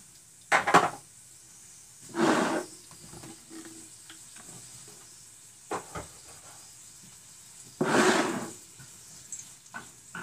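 Onions and habanero frying in oil in a skillet with a faint steady sizzle, broken by several louder noisy bursts of kitchen handling and a sharp knock about six seconds in.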